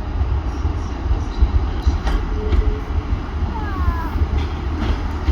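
Diesel passenger train moving slowly out of the platform, its engine and wheels making a steady low rumble close by.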